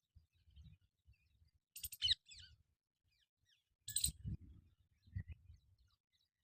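A parrot giving two short, harsh screeches, about two seconds and four seconds in, with faint chirps between them. Intermittent low thumps and rumble run underneath.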